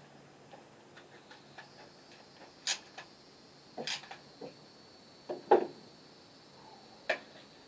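A scattered series of light clicks with four sharper knocks, the loudest about five and a half seconds in.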